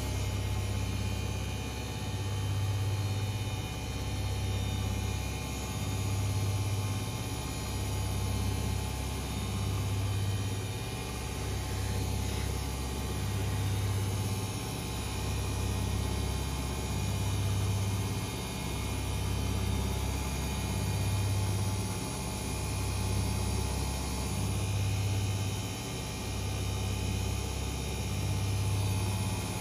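Two front-loading washing machines, an AEG Öko-Lavamat 88840 and a Miele Novotronic W 985 WPS, running: a steady low hum that swells and fades about every three seconds over a constant whirring noise.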